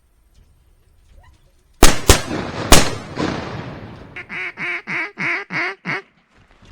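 A shotgun fired three times in quick succession, each shot echoing off the timber. Then a run of about six quacks.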